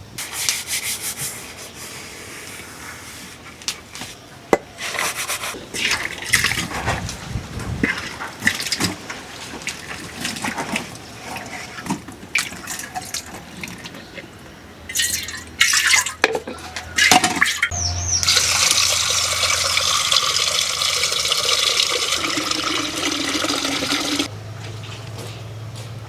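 Scattered clatter and scraping of handled objects, then water pouring steadily for about six seconds before stopping abruptly.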